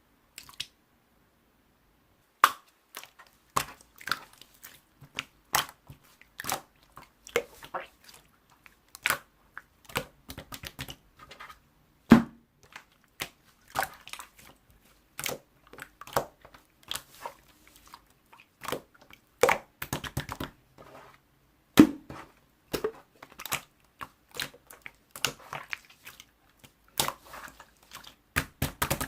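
Close-up irregular crackling and crunching: a quick, uneven run of sharp clicks and crunches.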